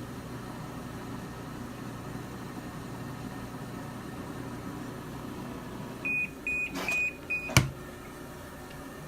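Giantex portable washing machine's control panel beeping four short high beeps, its warning to close the lid before the spin cycle, followed by a single sharp click. A steady low hum runs underneath.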